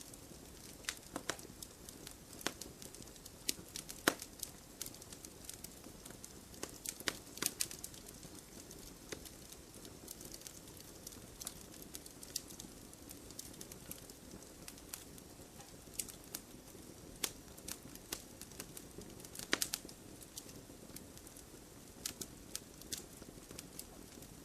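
Wood fire crackling in a fireplace: irregular sharp pops and snaps over a soft, steady hiss, with a louder pop about four seconds in and another near twenty seconds in.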